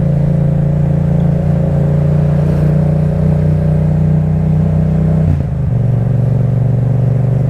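Yamaha MT-07's parallel-twin engine running steadily through an Akrapovic titanium exhaust. About five seconds in, the note breaks briefly for an upshift and then settles a little lower.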